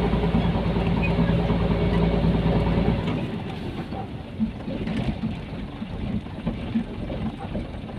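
Nissan Diesel container truck's engine running with a steady low drone. About three seconds in the drone drops away, leaving a quieter rumble with small knocks and rattles.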